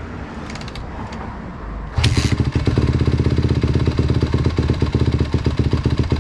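Honda CRF150RB dirt bike's 150cc four-stroke single being kick-started: it fires about two seconds in and keeps running loud with a rapid, even firing beat.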